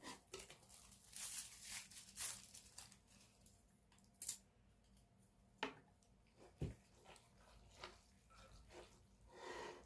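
Faint close-up eating sounds of stir-fried vegetable gopchang being chewed: soft wet mouth noises, with a few sharp clicks and knocks about four to seven seconds in.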